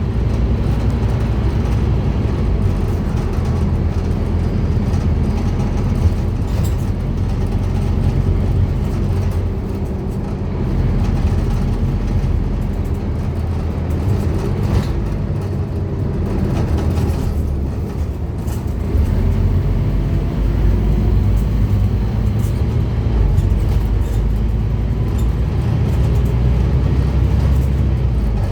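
Scania N230UD double-decker bus's diesel engine running under way, a steady low drone with rattles. The drone dips around 18 seconds in and picks up again soon after.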